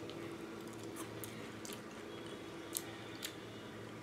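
A few faint, crisp crunches of someone chewing a fleshy outer sepal (the 'petal bit') of an elephant apple (Dillenia indica), over a steady low hum.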